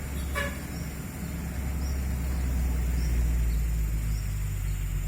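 Truck engine running with a low, steady rumble that grows louder midway and then eases slightly.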